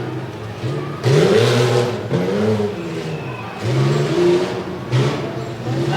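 Tough Truck engine revving hard several times, its pitch climbing and dropping with each rev.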